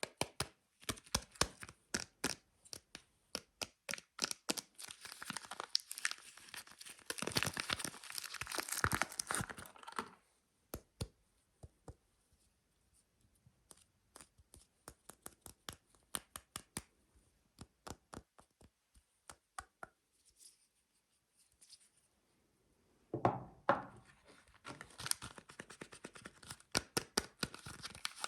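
Soap packaging being torn open and crinkled by hand, with many quick taps and clicks. The handling goes quiet for a long stretch in the middle, with only a few faint ticks, then resumes with a louder rip and more crinkling near the end.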